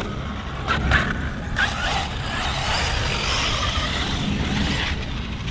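Arrma Kraton 6S brushless RC truck running off-road: its motor whine and tyres on loose dirt swell over a few seconds, with a few knocks about a second in and a steady low wind rumble on the microphone.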